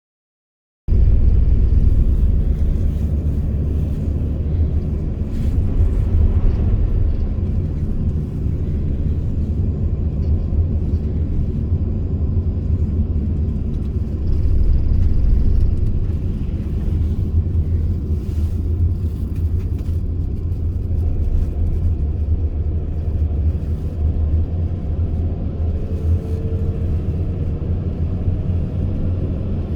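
Mercedes Sprinter van with a V6 engine driving, a steady low rumble of engine and road noise that starts about a second in. A faint rising engine note comes in near the end.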